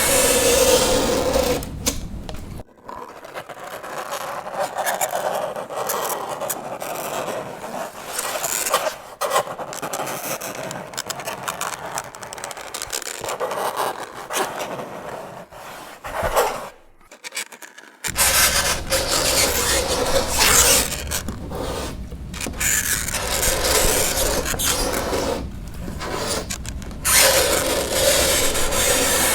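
Fingernails scraping across a chalkboard: a continuous, uneven rasping screech made of repeated strokes. It breaks off briefly about two-thirds of the way through, then resumes.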